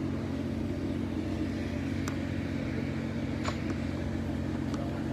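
Steady low drone of a running engine or machinery, with a few faint clicks.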